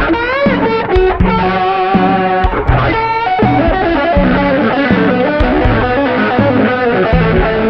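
Electric guitar music with effects: bent, wavering lead notes over a repeating low bass line.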